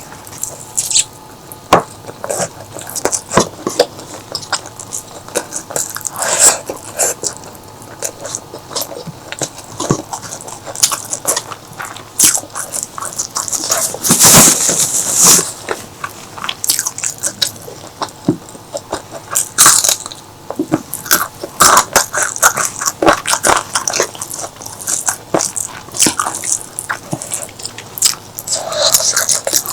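Close-miked eating sounds: wet chewing, biting and mouth clicks from a meal of curry, irregular throughout, with a louder noisy stretch lasting a second or so about halfway through.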